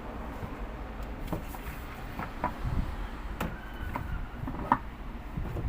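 Scattered clicks and knocks of the washing machine's spin-dryer tub being handled and seated back onto its shaft, over a steady low hum.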